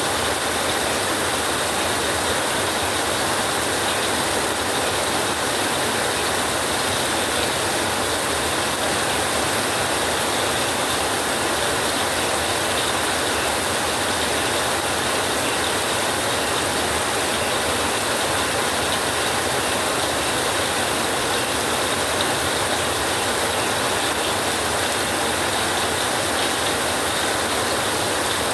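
Steady heavy rain drumming on a tin roof: a dense, even hiss of countless drops striking metal, with no break or swell.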